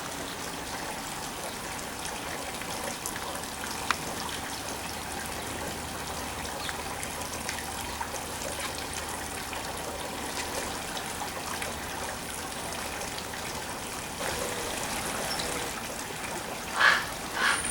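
Steady trickle of running water. A single sharp click comes about four seconds in, and two short, louder sounds come near the end.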